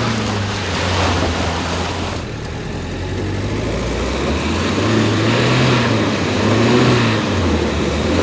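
Renault Duster's 1.5-litre diesel engine revving up and down as its tyres spin and churn through deep mud, the car bogging down. From about halfway, the engine note swells and falls again several times in a row.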